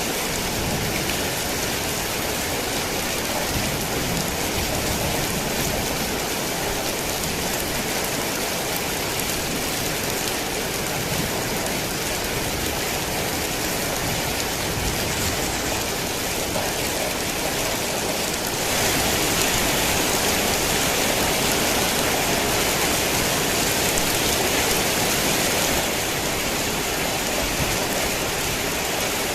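Steady heavy rain falling, a dense even hiss of drops. About two-thirds of the way in it grows louder and brighter for around seven seconds, then eases back to its former level.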